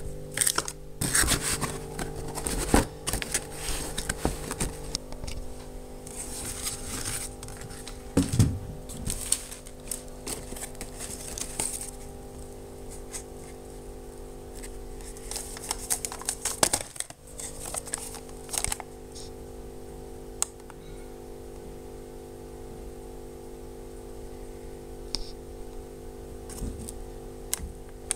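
Handling noises: clicks, taps and rustling as objects are moved about, over a steady electrical hum. The handling is busy at first and thins out in the second half, leaving mostly the hum.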